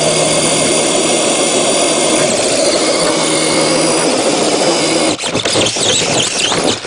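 Small electric motor of a 1/10-scale RC truck's winch running with a steady whir, which breaks off into irregular rattling about five seconds in.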